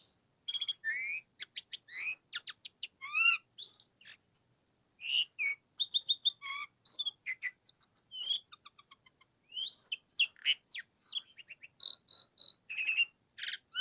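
Javan pied starling (jalak suren) singing in full, vigorous song: a varied run of clear whistles, quick chirps and rising and falling notes, broken by short pauses.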